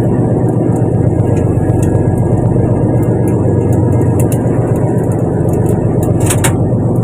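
A fishing boat's engine running steadily with a loud, even low hum, with a brief crackle about six seconds in.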